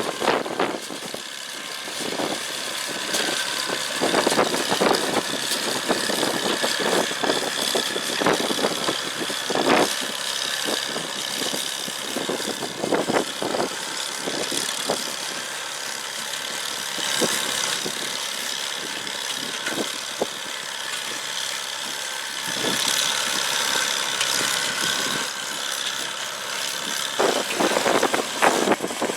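McCormick-Deering No. 50-AW wire-tie hay baler running, driven by its Farmall Cub four-cylinder engine, with a steady engine note under frequent irregular clanks and knocks from the baling mechanism.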